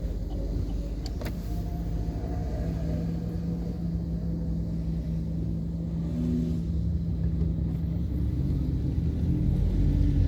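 Chevrolet Cruze 1.6 16-valve petrol engine running steadily, with the catalytic converter removed, along with low rumble, getting somewhat louder over the last few seconds.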